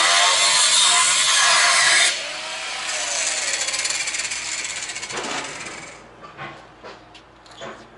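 Angle grinder with a cutting disc cutting steel, released about two seconds in and spinning down over the next few seconds with a falling pitch. Small knocks and clicks of handling follow near the end.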